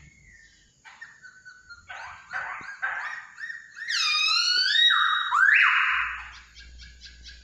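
Poksay hongkong (a laughingthrush) calling: a run of short whistled notes, swelling about four seconds in into a loud sweeping call that slides down then up, followed by a harsh rasping note.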